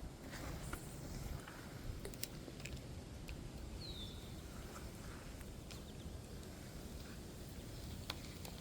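Quiet outdoor ambience: low wind rumble on the microphone, a few faint scattered clicks, and one short high falling chirp about four seconds in.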